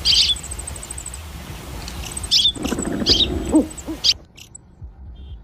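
A few short, sharp bird calls over a fast, high ticking trill, with some lower sliding calls in the middle; the sound cuts off abruptly a little after four seconds.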